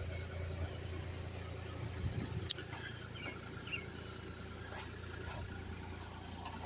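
Crickets chirping in a steady, evenly pulsed high rhythm, with one sharp click about two and a half seconds in and two short falling chirps just after it.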